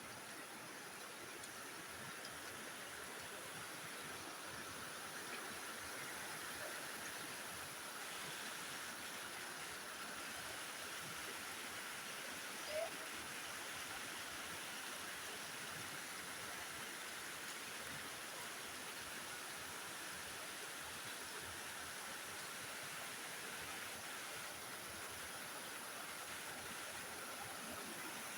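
Steady rushing of a waterfall's water. About halfway through there is one short, high chirp.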